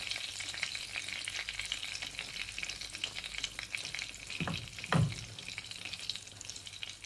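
Egg-soaked bread and bacon frying in hot fat in a frying pan: a steady crackling sizzle. Two dull knocks come about four and a half and five seconds in.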